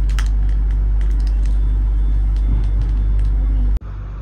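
Passenger train running, heard from inside the carriage: a loud, steady low rumble with faint light clicks. Near the end it cuts off abruptly into a quieter, thinner rumble.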